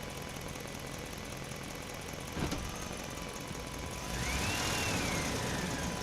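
Small 370-size electric motor and gear drive of a radio-controlled scale Land Rover Defender 90 whining as it drives. A click comes about two and a half seconds in. From about four seconds in it gets louder and its pitch rises, then falls away as it speeds up and slows again.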